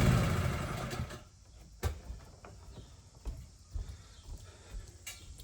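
Gasoline pressure washer engine shutting off, its running note dropping and dying away over about a second. Then a few faint knocks and clicks.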